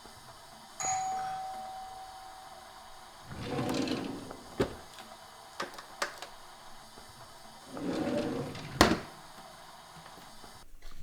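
A doorbell rings once about a second in, a single ringing tone that fades over a couple of seconds. Later come two short rustling swells and several sharp clicks and knocks, the loudest near the end.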